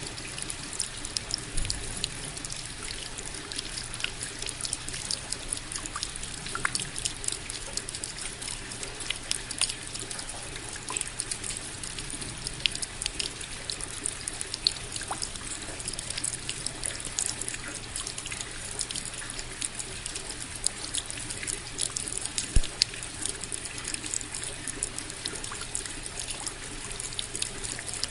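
Rain falling steadily: a constant hiss of water with many small, sharp drop hits scattered through it, and one louder drop about three-quarters of the way in.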